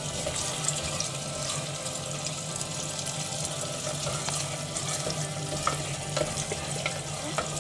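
Tomato masala with freshly added curry leaves sizzling in hot oil in a clay pot, a steady frying hiss as a wooden spoon stirs it. A few light knocks of the spoon against the pot come near the end, over a low steady hum.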